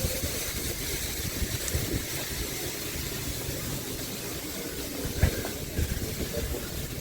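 Steam locomotive, a GWR large prairie tank engine, standing with steam hissing steadily over a low rumble, and one sharp knock a little after five seconds in.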